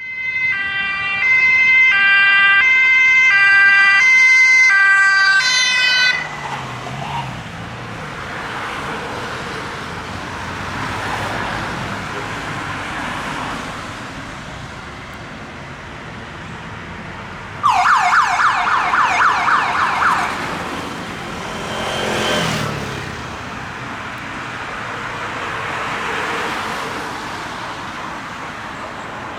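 German police car's two-tone siren (Martinshorn) alternating between two pitches for about six seconds, then the patrol car's engine and tyre noise as it speeds by. About 18 seconds in comes a couple of seconds of fast yelp siren, and around 22 seconds a short falling squeal of tyres under hard braking.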